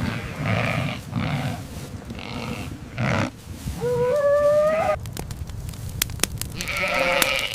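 Flock animals bleating several times, one long cry rising in pitch about four seconds in. From about five seconds in, a fire crackles with sharp pops, with one more bleat near the end.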